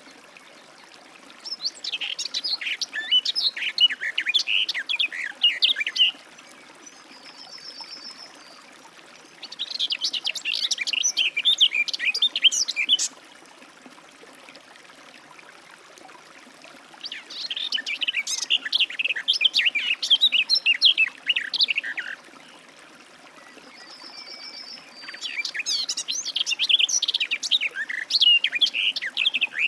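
Garden warbler singing: four long, rapid warbling phrases, each lasting about four to five seconds, with pauses of a few seconds between them.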